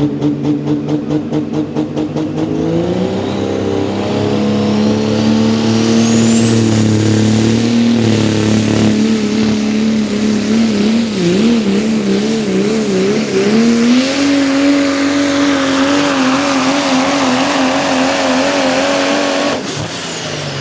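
Diesel 4x4 pickup pulling the sled at full throttle. The engine pulses at first, then climbs in pitch with a rising high turbo whistle, wavers for a few seconds mid-pull, and rises again. Near the end the throttle is cut and the whistle falls away as the turbo spools down.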